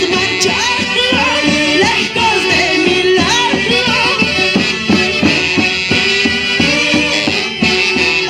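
Live Andean orquesta típica music: the band plays a lively huayno, with melody lines over a steady, even beat.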